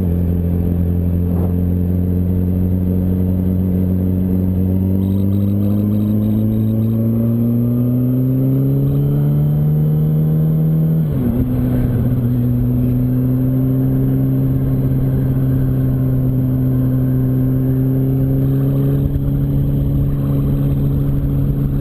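Yamaha R1 inline-four engine heard from the bike, pulling through a gear with its pitch rising steadily, then dropping sharply at an upshift about eleven seconds in and running on at a steady, slowly climbing pitch.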